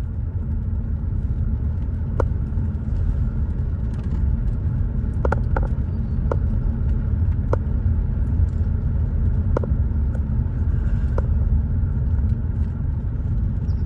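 Car driving, heard from inside the cabin: a steady low road and engine rumble, with a few faint clicks scattered through it.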